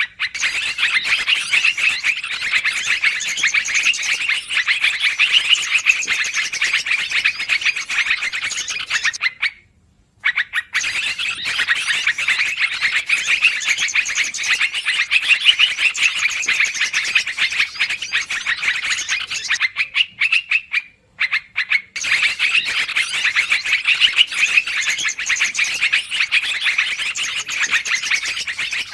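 Yellow-vented bulbuls (trucukan) giving noisy, rapid chattering calls, played as a bird-trapping lure recording. The chatter runs in long stretches, breaking off briefly about ten seconds in and again about twenty-one seconds in.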